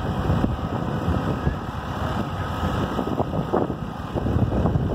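Deutz D8005 tractor's air-cooled diesel engine running under heavy load as it drags the weighted pulling sled, a steady low rumble mixed with wind buffeting the microphone.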